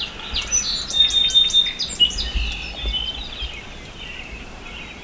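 Small songbird singing: a quick string of high chirps and whistled notes in the first half, then fading to quieter calls. A low rumble sits under it around the middle.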